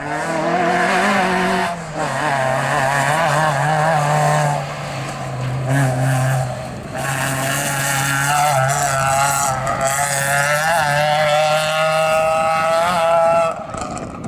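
Rally car engine at high revs on a gravel stage, its note wavering and easing briefly about 2, 4.5 and 7 seconds in before building again, with a hiss of tyres and gravel.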